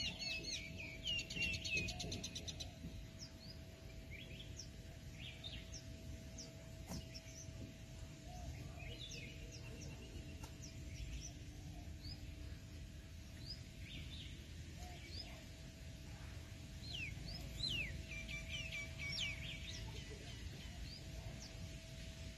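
Wild birds chirping and calling on and off over a steady low outdoor rumble. A rapid trill comes in the first couple of seconds, and the calling grows busier near the middle and again a few seconds before the end.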